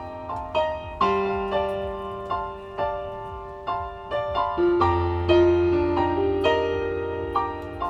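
Keyboard, with an electric-piano sound, playing the slow opening of a Latin fusion ballad: chords and single notes that ring and fade, about two a second, over long held bass notes.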